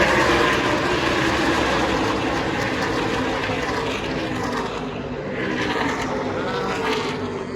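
NASCAR race trucks' V8 engines running at speed past the track, the engine pitch dropping as trucks go by, once near the start and again towards the end.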